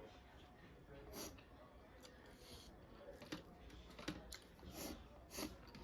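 Soft, close-up eating sounds of a person chewing duck meat: about five short mouth and chewing noises spaced a second or so apart.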